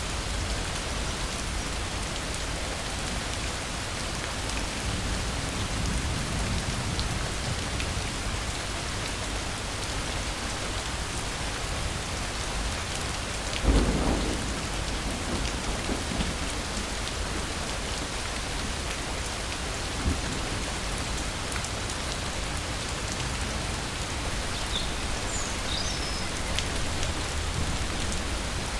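Steady rain falling, with one clap of thunder about halfway through that rumbles away over a couple of seconds. A few brief high chirps come near the end.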